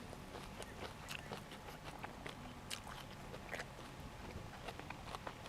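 A person chewing and biting food close to the microphone: a run of small, irregular wet clicks and crunches.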